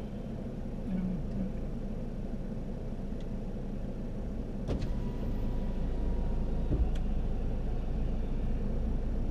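Car running, a steady low rumble, with two faint clicks about five and seven seconds in.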